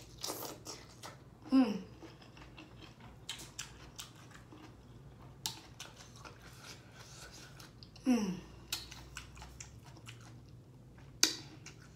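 Close-miked chewing of a sauced seafood-boil shrimp, with many small wet mouth clicks. Two short hums falling in pitch come about a second and a half in and about eight seconds in, and one sharp click comes near the end.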